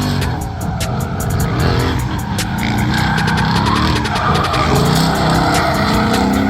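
Drifting car: the engine revs rise and fall while the tyres squeal and skid, the tyre noise growing from about halfway through.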